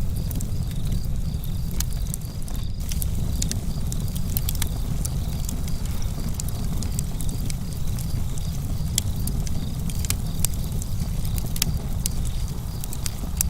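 Campfire crackling: frequent irregular sharp pops and snaps over a steady low rumble of burning.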